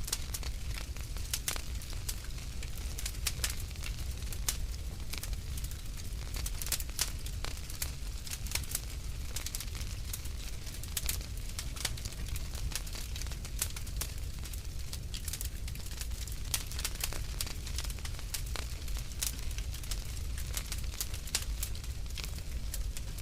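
Wood fire crackling in a fireplace: frequent, irregular sharp pops and crackles over a steady low rumble.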